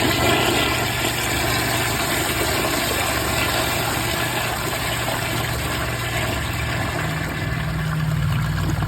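Mansfield Summit dual-flush toilet flushing with the tank filled to the waterline: a loud, steady rush of water through the bowl, with a lower tone joining near the end.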